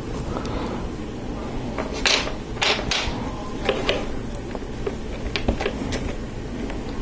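Plastic Lego Technic parts clicking and rattling as they are handled and picked through. A cluster of louder clicks comes about two to three seconds in, with lighter ticks scattered after.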